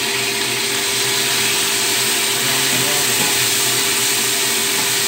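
Tofu frying in a cast-iron wok, sizzling hard in hot oil as a dark sauce poured in boils off in steam. A steady hiss with a faint steady hum underneath.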